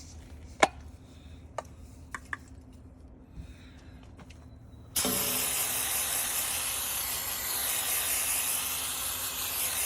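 A few sharp clicks and taps, then about five seconds in an aerosol can of brake cleaner sprays in one long continuous hiss that cuts off suddenly at the end.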